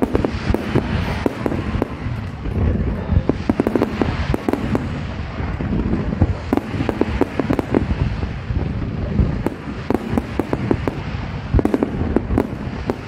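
Fireworks display: a dense, continuous run of bangs and crackles, several reports a second, over a steady deep rumble of bursts.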